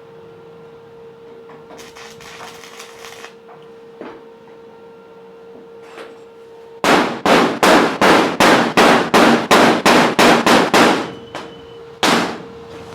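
Hammer striking metal in a fast run of about fifteen blows over four seconds, starting about seven seconds in, followed by two single blows near the end.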